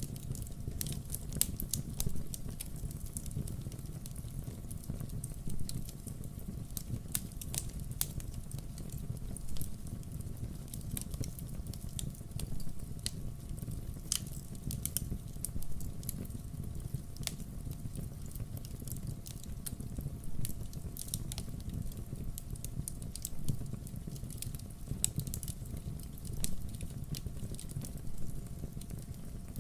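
Wood fire burning, with a steady low rumble and many sharp, irregular crackles and pops of the burning logs, a few each second.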